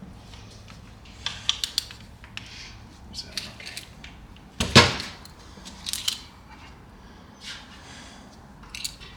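Metal hand tools clicking and clattering as the ring gear bolts on a GM 8.2-inch differential carrier are torqued, with one sharp, loud clack about halfway through.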